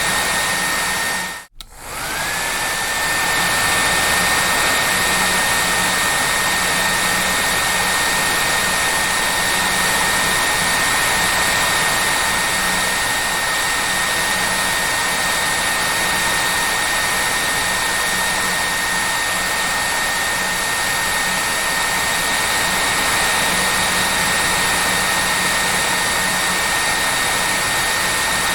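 Hair dryer running steadily, a rushing blow with a high whine. About a second and a half in the sound drops out briefly, then comes back with the whine rising and settling at a steady pitch.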